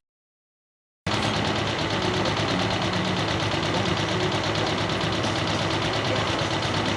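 Pulling tractor's diesel engine running steadily at the line, cutting in abruptly about a second in after silence.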